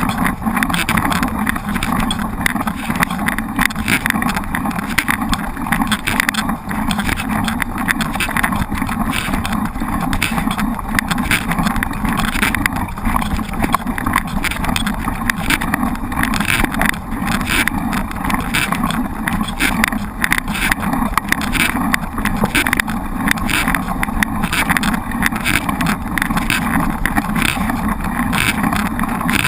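Mountain bike being ridden over rough ground: a steady rush of wind over the microphone with frequent small knocks and rattles from the bike.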